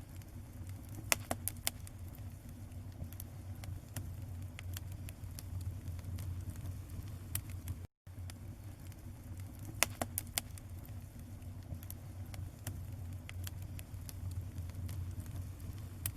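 Bonfire crackling and popping: irregular sharp snaps over a steady low rumble. The sound cuts out for a moment about eight seconds in.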